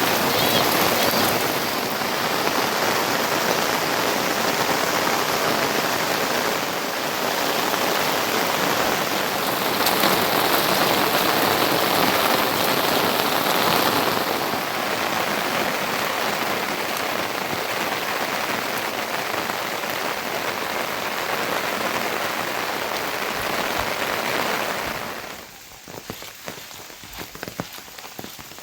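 Steady heavy rain, a dense hiss. About 25 seconds in it drops suddenly to a much quieter rain in which single drops are heard as separate ticks.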